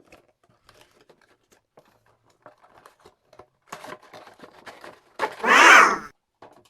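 Toy packaging being handled, with scattered light crinkles and clicks. About five seconds in comes one loud ripping sound lasting about a second, as the packaging is torn open.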